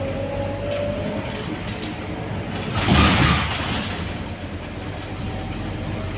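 Scania K230UB bus's five-cylinder diesel engine running steadily with a low hum, and a short loud hiss lasting under a second about three seconds in.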